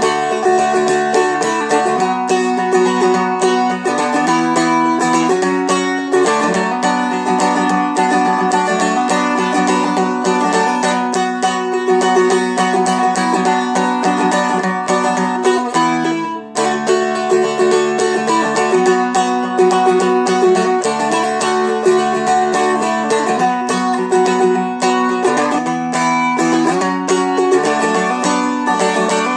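Seagull Merlin M4, a four-string fretted dulcimer-style instrument, flatpicked at a brisk pace: a quick melody over ringing drone strings. It plays a minor-key tune, breaks off briefly about halfway through, and ends on a chord left ringing.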